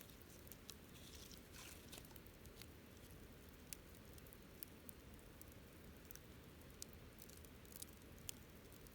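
Wood campfire burning quietly, with scattered sharp crackles and pops from the burning wood and a brief hiss about a second and a half in.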